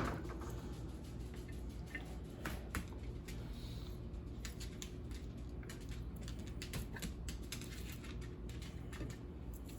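Faint scattered light clicks and crackles of kitchen work with sliced onion rounds, over a low steady hum.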